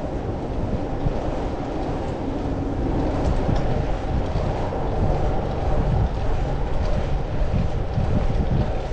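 Steady low rumble of wind buffeting the microphone and tyre and road noise from a fixed-gear bicycle being ridden.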